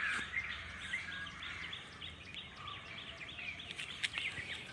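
Birds chirping in a quick run of short high calls, about three a second, over faint outdoor background noise.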